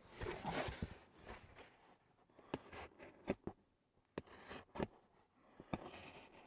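Styrofoam board being cut by hand: faint scratchy cutting strokes for the first couple of seconds, then a few scattered clicks and taps.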